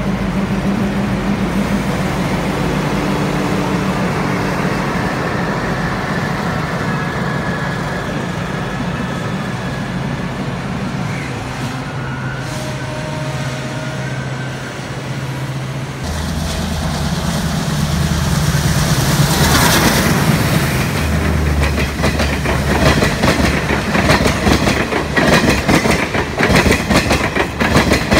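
Indian Railways diesel locomotive running with a steady low hum as trains pass. In the second half, passenger coaches roll past close by with loud, rapid clickety-clack of the wheels over rail joints.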